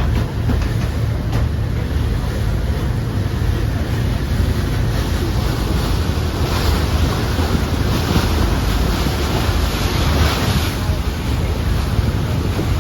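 A motorboat underway at sea: wind buffeting the microphone over the rush of water along the hull, a steady heavy rumble that swells a few times in the middle.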